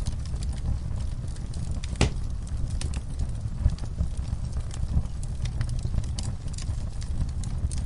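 Wood fire in a fire pit crackling and popping, with frequent sharp snaps of burning logs and coals over a steady low rumble; one louder pop comes about two seconds in.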